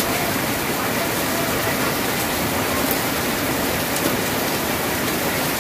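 Steady rain drumming on a tin roof, a dense, even patter with no let-up.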